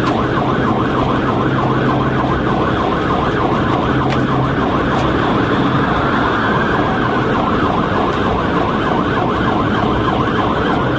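Police cruiser siren yelping, a fast rising-and-falling tone repeating steadily, with a slower wailing sweep across it around the middle, over the cruiser's engine and road noise during a highway pursuit.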